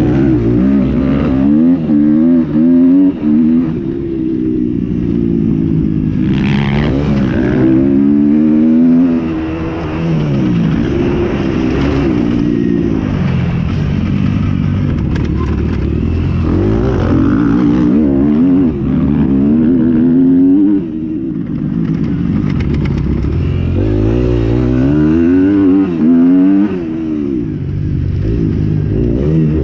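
Several motocross motorcycles racing, their engines revving up and down over and over as they accelerate and shift, with more than one engine note overlapping.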